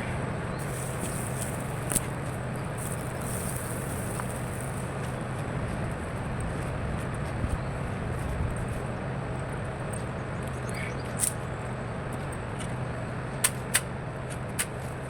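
A steady low machine hum under an even hiss, broken by a few sharp clicks or taps: about two seconds in, once past the middle, and several near the end.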